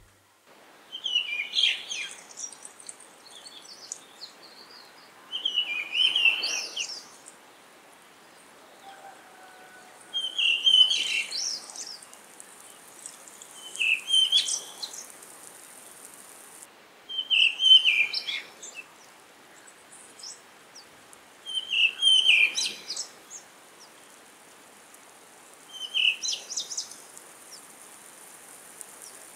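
A songbird singing the same short, rising phrase about every four seconds, over a faint steady hiss.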